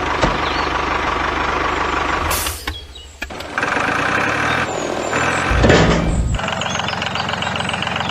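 Truck engine running with a steady low rumble. It cuts out abruptly about two and a half seconds in, then resumes with a different engine tone, and there is a brief louder surge near the six-second mark.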